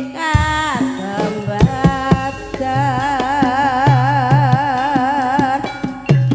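Javanese gamelan music for an ebeg dance: a long held melodic line with wide, even vibrato over sharp hand-drum (kendang) strokes and ringing sustained tones. The line first slides down in pitch, then holds a wavering note until near the end.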